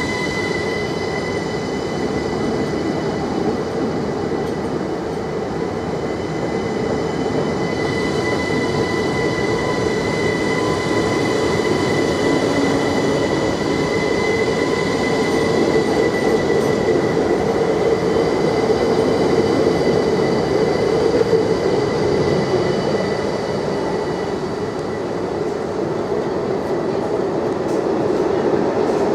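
Train in a station, a steady rumble with high, steady whining tones over it.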